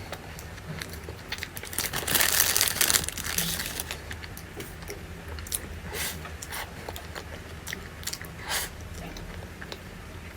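A person biting and chewing crunchy food: many short crunches, with a louder stretch of crinkling and crunching about two to three and a half seconds in.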